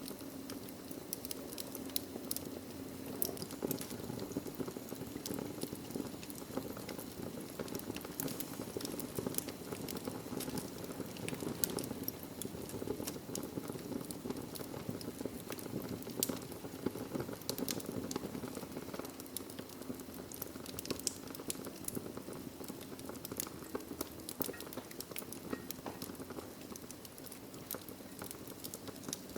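Wood fire burning in a fireplace: a steady low rush of flame with frequent sharp crackles and pops from the logs.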